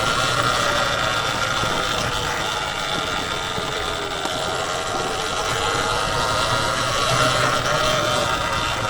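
Sur-Ron Ultra Bee electric dirt bike's motor whining steadily while riding, its pitch drifting slightly up and down with speed, over a continuous rushing noise.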